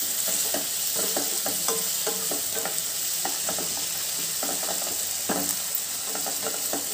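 Tomatoes, onions and cashews frying in oil in a non-stick wok, sizzling steadily, while a spatula scrapes and taps through them in many short strokes.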